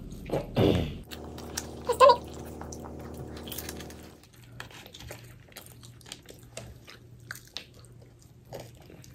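Eating fried chicken up close: chewing, biting and small mouth clicks and smacks. A steady low hum runs under the first four seconds and then stops abruptly.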